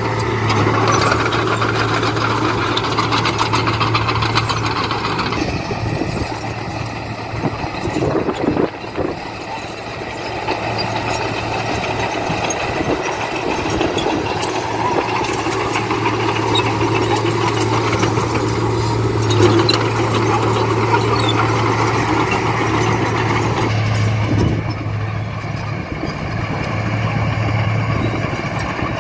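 Heavy diesel earthmoving machinery running, the engine note shifting with load, with a few knocks and clanks about eight seconds in.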